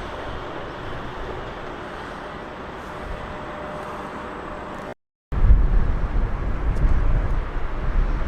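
Steady rumble of vehicle noise. About five seconds in, an abrupt cut leads into a louder, deeper rumble.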